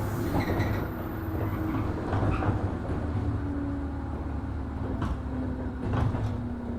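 Running noise inside a JR 103 series 1500 electric train as it slows. The drive hum falls slowly in pitch under a steady rumble, with a few sharp clicks near the end.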